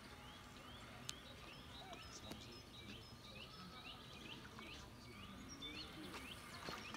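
A small bird calling repeatedly in a quick series of short rising chirps, two or three a second, over faint outdoor background noise. Two sharp clicks come about one and two seconds in.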